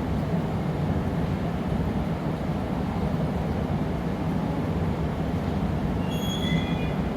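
Steady low roar of a gas-fired glassblowing furnace or glory hole burner. About six seconds in, a short, high-pitched metallic squeal sounds over it.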